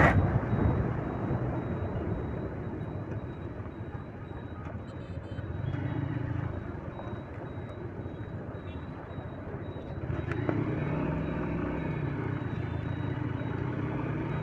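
Motorcycle running at road speed, engine hum under wind rumble on the microphone, with the engine note growing a little louder about ten seconds in.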